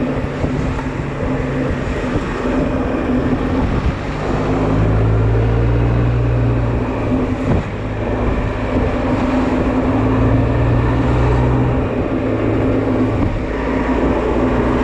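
Honda Silver Wing maxi-scooter engine running under way, its note shifting in pitch a few times with the throttle, over heavy wind and road noise on the riding microphone.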